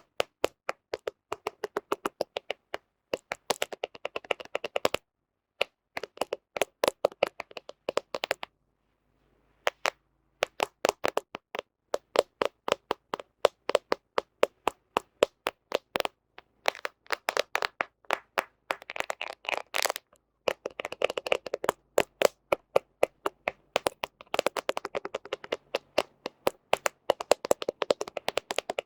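Fingernails tapping on a smartphone camera close to the microphone: runs of sharp clicks a few a second, with faster flurries of tapping. The tapping stops for about a second and a half some eight seconds in.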